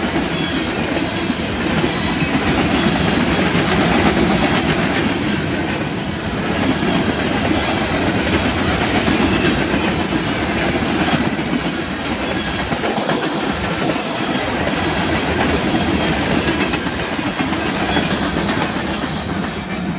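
Covered hopper cars of a freight grain train rolling past close by: steady noise of steel wheels on the rails, with a few clacks over rail joints.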